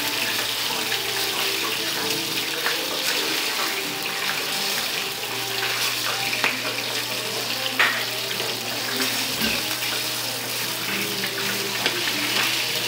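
Chicken frying in hot oil in a pot: a steady sizzle with a few sharp pops of spattering oil.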